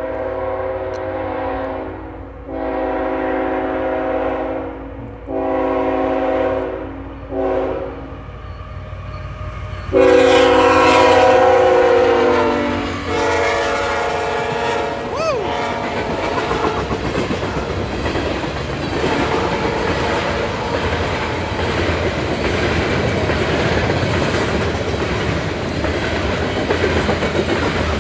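Multi-note air horn of a CN GE ET44AC locomotive leading an eastbound freight train, sounding a series of blasts for the grade crossing. The last and loudest blast begins about ten seconds in as the locomotive reaches the crossing. The train then rolls through at speed with a steady rumble and the clickety-clack of freight car wheels.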